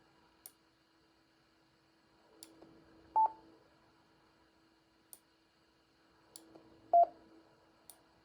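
Yaesu FTM-200D mobile transceiver giving two short key beeps, one about three seconds in and a lower one about seven seconds in, with a few faint clicks between. Its speaker is otherwise silent while transmitting in analog mode, with none of the noise it puts out when transmitting in digital.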